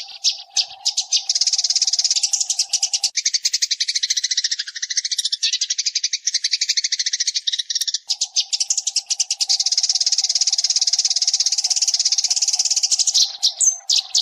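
Eurasian tree sparrows chattering: a dense, rapid run of high chirps. A low steady hum lies underneath for the first few seconds and again in the second half.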